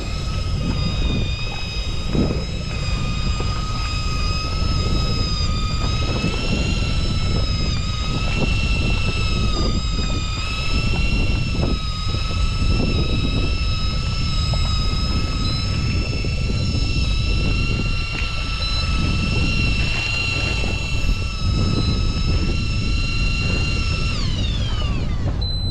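Tohatsu 2 hp outboard motor running steadily under way, a high droning whine over wind and water rush; near the end its pitch falls as the throttle comes down.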